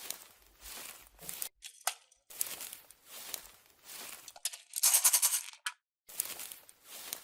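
Hands working slime or clay give short crackling, crinkling handling noises about once a second, with a longer, louder crackling burst about five seconds in.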